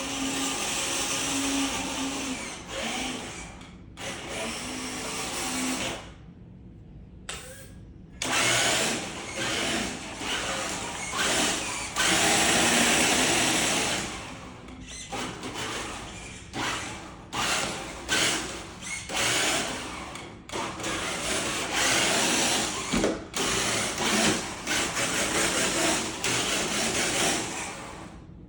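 Electric motor of a radio-controlled car whirring in repeated short bursts as the throttle is opened and released, with a quiet pause partway through.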